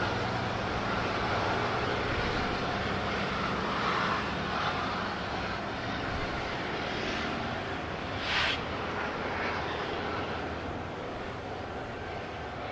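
Steady engine rumble of a large vehicle, slowly fading, with one short sharp sound about eight seconds in.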